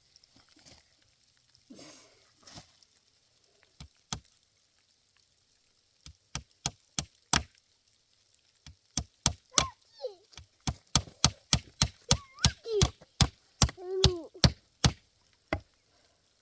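Repeated sharp blows on wood, starting about six seconds in and speeding up to two or three a second, with short vocal sounds among them near the end.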